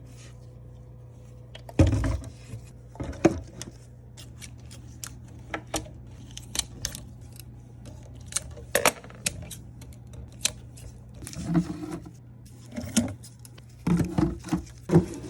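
Items being handled and set down by hand: scattered sharp clicks and taps, a heavier knock about two seconds in and a busier run of knocks near the end, over a steady low hum.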